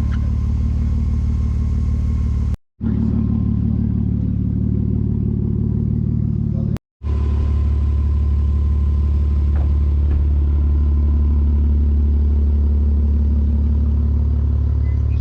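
Steady engine and road drone inside a car cruising at highway speed. It cuts out abruptly twice, briefly, about two and a half and seven seconds in.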